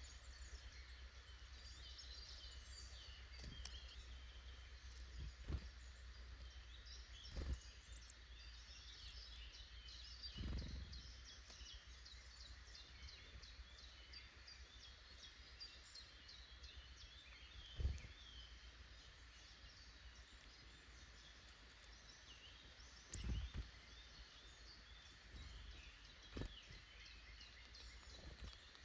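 Small woodland songbirds chirping and calling, with many quick high chirps and trills overlapping, faint over a low background rumble. Six brief low thumps break in, the loudest about 18 seconds in.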